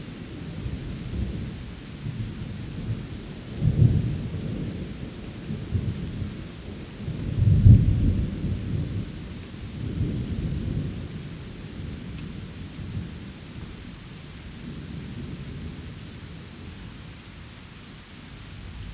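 Steady rain with rolling thunder, the rumbles peaking about four and eight seconds in and then dying away.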